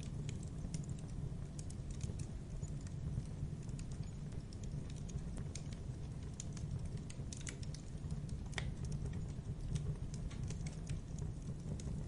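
Wood fire crackling in a fireplace: scattered sharp pops and snaps over a steady low rumble of the flames, with one louder snap about two-thirds of the way through.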